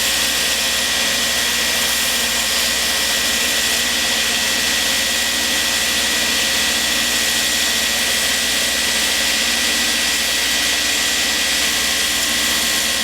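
Belt grinder running steadily on its 10-inch contact wheel, grinding a knife's handle block down toward a palm-swell shape. It is a constant loud rushing noise with a steady high whine over it.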